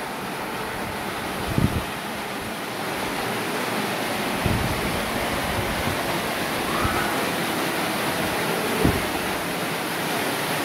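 Waterfall: a steady rush of falling water, with a few brief low thumps.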